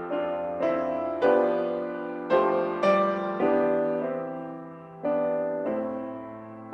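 Solo piano playing a slow, gentle hymn tune in chords, each chord struck and left to fade, roughly one or two a second.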